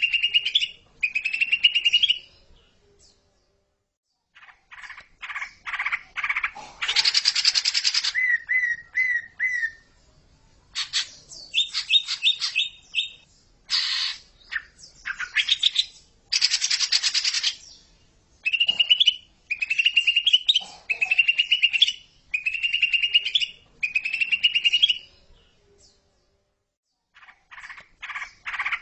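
Cucak ijo (green leafbird) singing, a song-training recording for young birds: short rising whistled phrases repeated about once a second, mixed with harsh buzzy bursts and a quick trill, with two short pauses.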